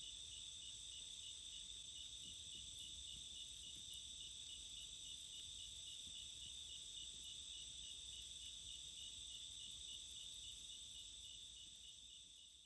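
Faint chorus of crickets and other insects, a steady high trill with a regular chirp pulsing through it, fading near the end.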